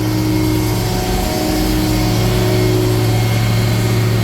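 Cummins diesel engine of a Freightliner M2 asphalt patch truck running steadily at idle while the patch unit heats up.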